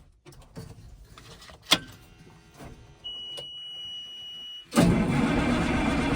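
A few clicks and one sharp click, then a steady high-pitched warning buzzer for under two seconds, before the straight-piped Cummins 855 diesel of a Versatile 875 tractor suddenly starts and runs loud. This is a cold start after a night at about −5.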